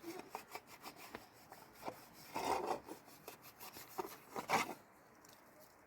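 Rough rubbing and scraping from hand work, with many light clicks and a few longer scraping strokes, the clearest about halfway through and again near the end.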